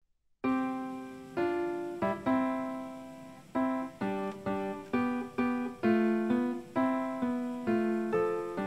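Solo piano music: a slow melody of single notes, each struck and left to fade, starting about half a second in.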